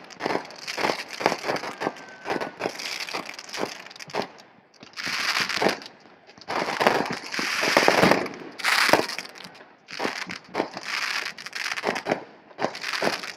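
Fireworks going off: a rapid run of bangs and crackles, several a second, with longer hissing, fizzing stretches in the middle.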